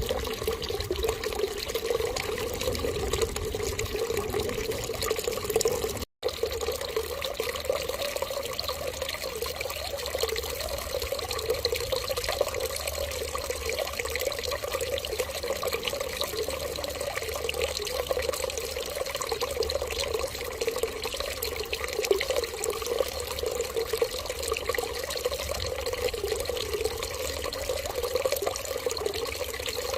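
Steady running water, a continuous stream like a tap left running, with a split-second gap about six seconds in.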